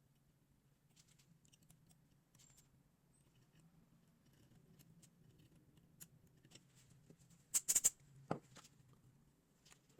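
Faint clicks and scraping from handling and cleaning a phone over a faint steady low hum, with a brief louder rasping burst about seven and a half seconds in.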